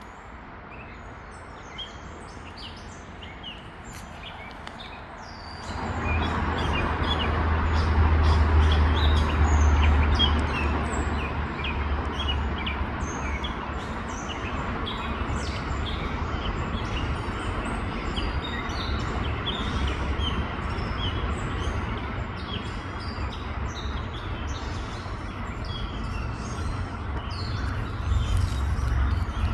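Birds in the trees chirping and calling over one another in a noisy squabble, many short chirps throughout. About six seconds in, a steady low rumbling noise comes in beneath them and stays.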